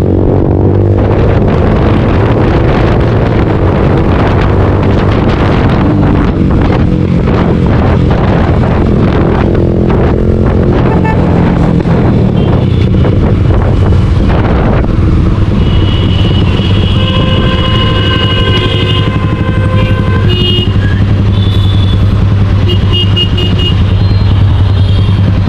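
Suzuki GSX-R motorcycle engine running through an aftermarket Scorpion exhaust, a loud, steady low exhaust note with the pitch shifting in the first couple of seconds.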